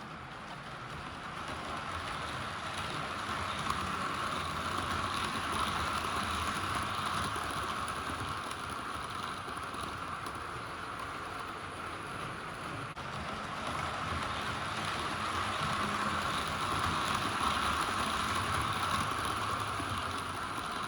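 Model diesel locomotive running on layout track: a steady whir and rolling rattle of its motor and wheels that grows louder as it comes near and fades as it moves away, twice.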